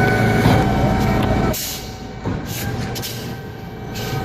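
Heavy diesel vehicle engine running with a steady whine over a low rumble, easing off about a second and a half in. Several short air hisses follow.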